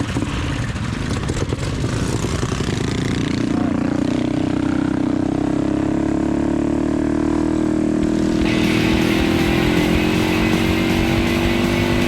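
A pack of mini bike engines revving and pulling away together at a mass race start, a dense overlapping engine din. About three seconds in, several engines settle into steady notes that climb slowly as the bikes gather speed.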